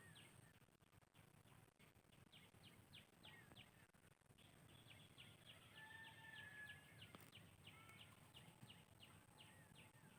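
Faint birdsong: a rapid, steady series of short high chirps, with a few whistled notes, one held briefly about six seconds in.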